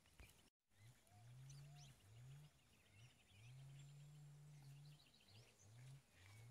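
Faint, repeated low animal calls, each rising in pitch, some short and some drawn out, with faint bird chirps above them. The sound cuts out briefly about half a second in.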